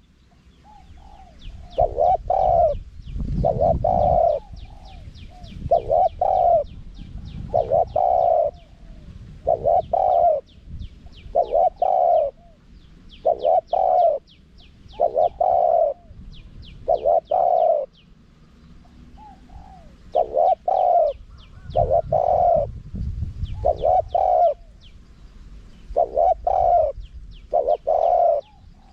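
Spotted dove cooing over and over in short, loud coos, roughly one every second or two: a lure call of the kind played to draw wild spotted doves in. Faint rapid high chirping of small birds sounds behind it.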